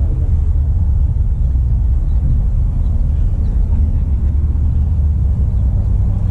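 Steady low rumble with no clear rise, fall or break.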